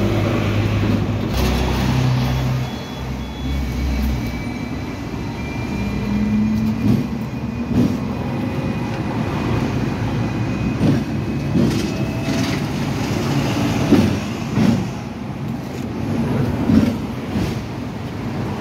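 Hong Kong double-decker electric tram running on street track: a steady rumble with irregular knocks as the wheels pass over rail joints, and a faint high whine. A deeper rumble fills the first few seconds.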